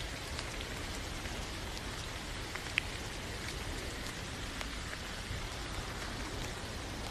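Steady rain falling: an even hiss with scattered faint drop ticks, and one sharper tick nearly three seconds in.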